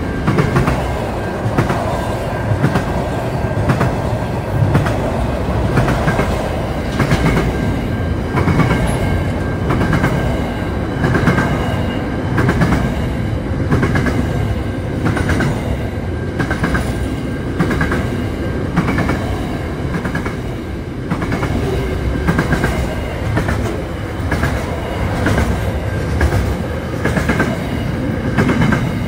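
Container freight train wagons rolling past close by: a steady rumble with the clickety-clack of wheels over rail joints in an even rhythm, and faint high ringing tones coming and going.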